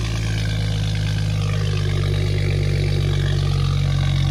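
BMW 335i's turbocharged inline-six idling steadily just after a cold start.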